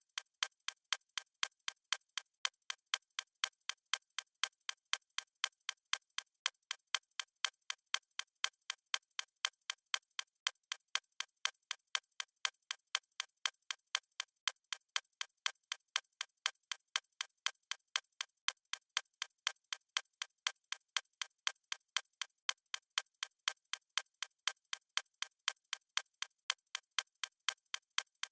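Stopwatch ticking sound effect: crisp, even, fast ticks at about four a second, light and with almost no low end.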